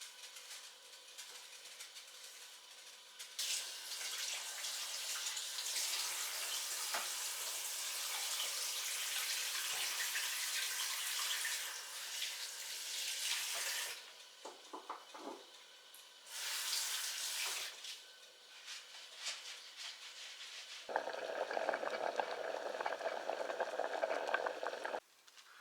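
Water running in several spells: a long hissing run, a short one, then a lower, fuller rush that stops abruptly near the end.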